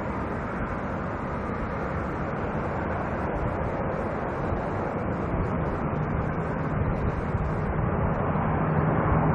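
Jet airliner engine noise, a steady dense roar that grows slightly louder toward the end, with a low hum coming in about halfway through.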